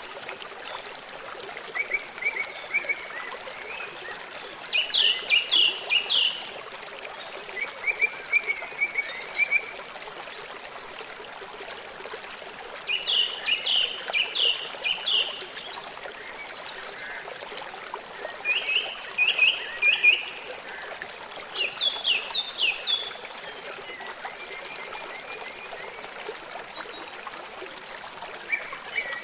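A steady trickling stream, with animal calls at intervals: groups of four to six short, high, falling chirps come every few seconds, with fainter, lower chirp series in between.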